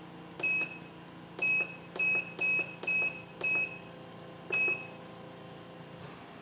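Control panel of a Cook's Essentials electric pressure cooker beeping as its buttons are pressed to set a 6-minute cook time: seven short, identical high beeps, each with a faint click of the button, the last a little after the others.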